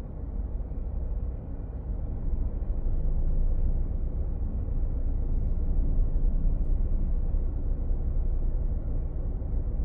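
Steady low vehicle rumble, a little louder from about two and a half seconds in.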